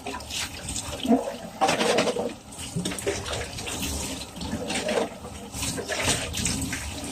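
Water running and splashing, with irregular spatters.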